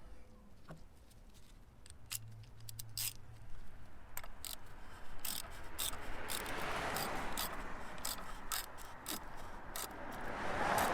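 Oil filter housing cap of a 3.6L Pentastar V6 being screwed back on: scattered sharp clicks with a scraping, rubbing sound that builds from about halfway through and is loudest near the end.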